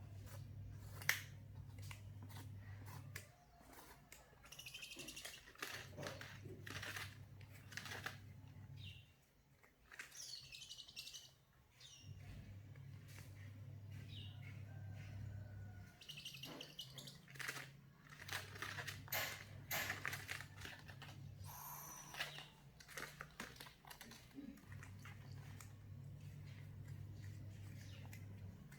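Owl chick giving several raspy, hissing begging calls, mixed with clicks and taps. Under them a low hum switches on and off every few seconds.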